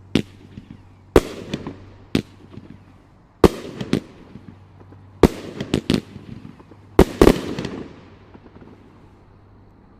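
Shots from a 500-gram consumer firework cake bursting overhead: about a dozen sharp bangs, several in quick pairs and clusters, some trailing short crackles. These are the cake's last shots, dying away about eight seconds in as it finishes.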